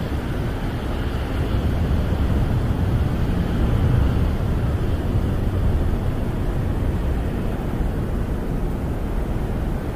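Snowstorm wind blowing against a camper, heard from inside as a steady deep rumbling rush that swells a little about four seconds in.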